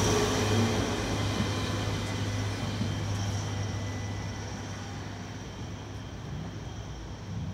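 Diesel passenger train passing and pulling away, its running sound fading steadily as it recedes. A steady low hum continues underneath.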